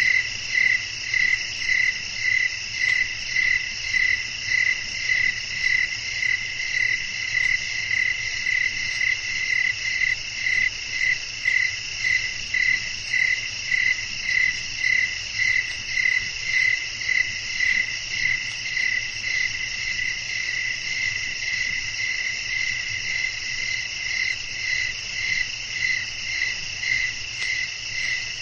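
Night chorus of crickets and other insects: steady high trilling, with one loud chirp repeating evenly about twice a second throughout.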